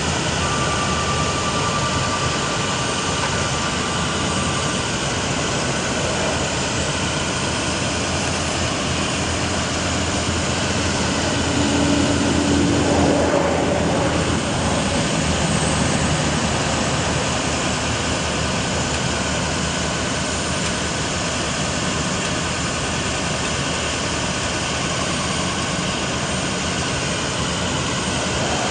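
Bucket truck's engine running steadily, with a thin steady whine over it for the first few seconds.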